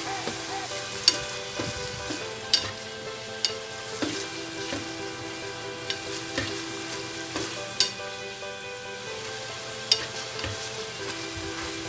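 Tofu and sliced bell peppers sizzling in oil in a frying pan as they are stir-fried with a spatula. There are several sharp knocks as the spatula strikes the pan.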